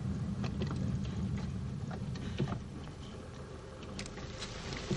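Ambulance car engine running as it drives, a steady low rumble with a few faint rattles.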